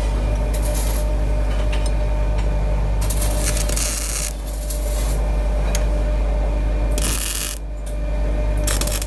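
Workshop machinery running with a steady low hum, broken by several bursts of bright scraping, hissing noise, each about a second long.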